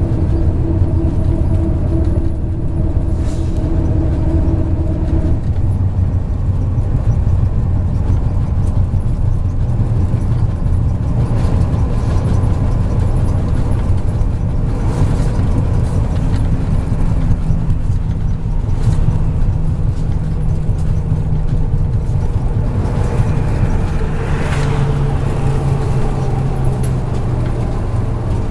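MAZ 103.562 city bus heard from inside the cabin while driving: steady engine and road rumble, with a whine that stops about five seconds in and the engine note shifting later. A brief hiss comes near the end.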